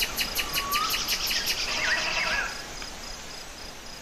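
Songbirds singing: a rapid trill of sharp high notes, about eight a second, that stops about one and a half seconds in, followed by a few short swooping whistles, over an insect's steady pulsing chirp.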